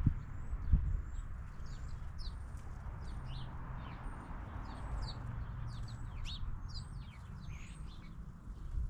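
A flock of small birds chirping: many short, high, quick chirps overlapping one another throughout, over a steady low rumble. One dull knock sounds about a second in.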